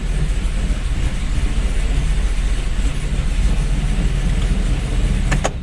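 Freshly installed 5.3-litre LS V8 running steadily on its first start-up after an engine swap, then shut off near the end.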